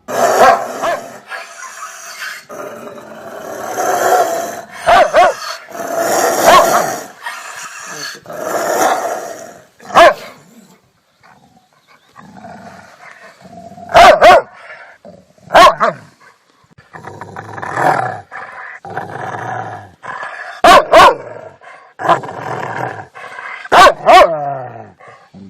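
A dog barking and growling. In the first half a long run of rough barks and growls goes almost without a break; in the second half come single sharp barks a few seconds apart, the last one dropping in pitch.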